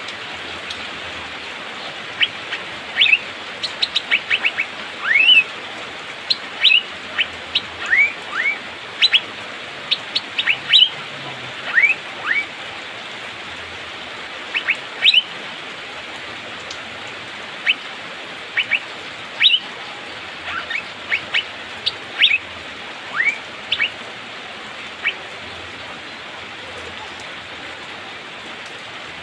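Asian fairy-bluebird (cucak biru) calling: quick runs of short, sharp whistled notes and rising liquid whistles, densest in the first half and thinning out until they stop about 25 s in, over a steady hiss of rain.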